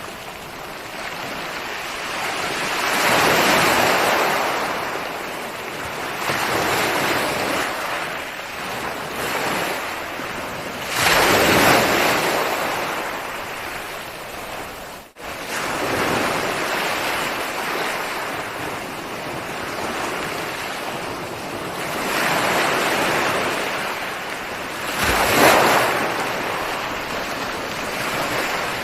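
Ocean waves breaking on a shore, the surf swelling and falling away every few seconds. The loudest breaks come about 11 seconds in and again near 25 seconds. The sound cuts out for an instant about halfway through.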